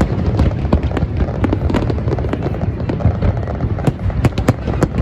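Fireworks display: rapid, irregular sharp cracks and bangs from bursting shells over a continuous low rumble of booms.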